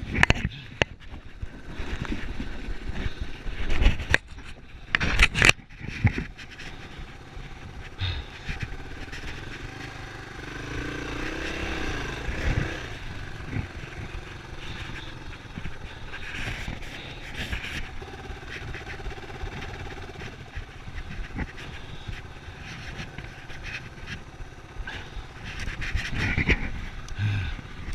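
Yamaha Serow single-cylinder enduro motorcycle engine running and revving up and down under wind noise. Sharp knocks come near the start and again about four to six seconds in.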